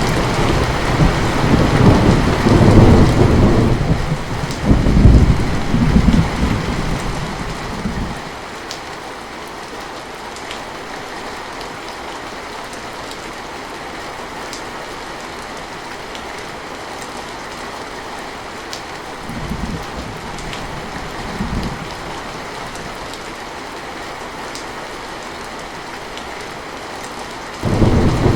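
Heavy rain falling steadily, with thunder rolling for the first eight seconds or so, two short low rumbles of thunder about two-thirds of the way through, and thunder starting up again suddenly near the end.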